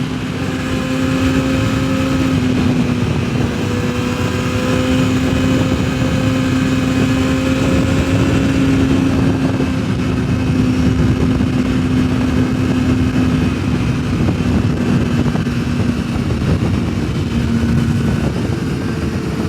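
Yamaha sportbike engine running at steady, nearly constant revs while cruising, its note sinking very slightly over the stretch, under heavy wind rushing over a helmet microphone.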